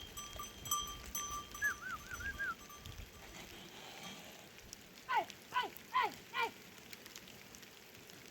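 Livestock bells clinking in a steady rhythm, about three strokes a second, stopping about three seconds in. Later, four short falling calls in quick succession, the loudest sounds here.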